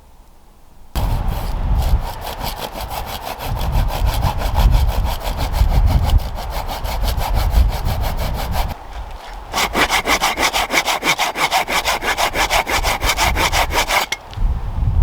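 Hand saw cutting through wood with rapid back-and-forth strokes. It starts about a second in, pauses briefly partway through, then resumes with sharper strokes and stops near the end.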